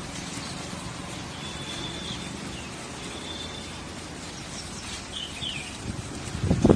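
Outdoor ambience with a steady low rumbling background and a few short, high bird chirps spread through it. A loud, low rustling thump comes near the end.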